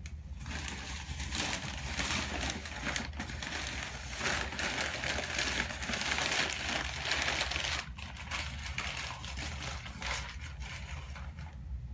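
Packing material crinkling and rustling as a mail-order orchid plant is unwrapped by hand. The crackling goes on almost without a break, with a short lull near two-thirds of the way through.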